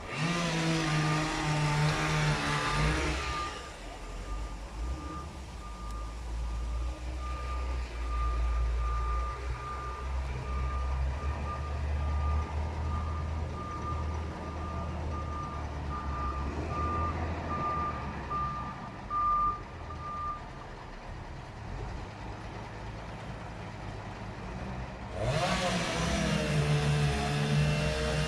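A heavy truck reversing: its backup alarm beeps about once a second over a low, steady diesel engine drone. A chainsaw runs for the first few seconds, and again from a few seconds before the end.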